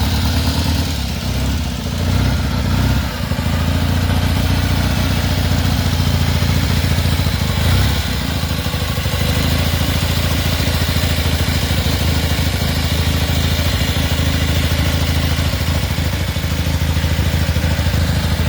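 Velocette twin motorcycle engine, built from two 1930s 350cc KSS engines (about 700cc), running. The speed wavers unevenly for the first few seconds, then it runs steadily.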